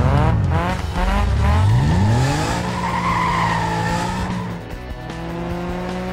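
Cartoon car engine sound effects revving, the pitch dropping and then climbing, followed by a wavering tyre squeal for about two seconds; the engine then runs steadily with a slowly rising pitch. Background music plays underneath.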